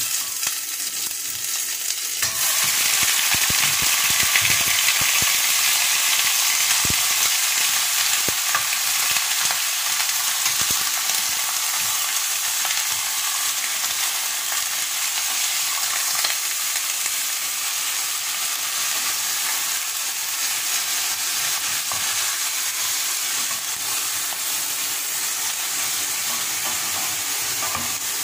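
Raw chicken pieces and bones sizzling in hot olive oil with ginger in a stainless steel saucepan, stirred with a wooden spoon. The sizzle grows much louder about two seconds in as the chicken goes into the oil, then runs steadily.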